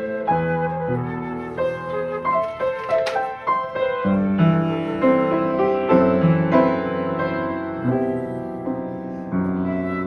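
Instrumental music played on piano and flute, with sustained notes changing every half second or so. There is a single sharp click about three seconds in.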